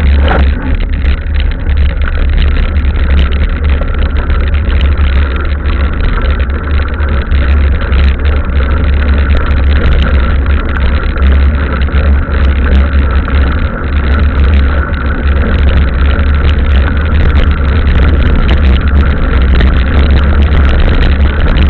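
Heavy low wind rumble on the microphone with steady rolling noise while riding a mountain bike along a trail, and scattered small clicks and knocks from the bike.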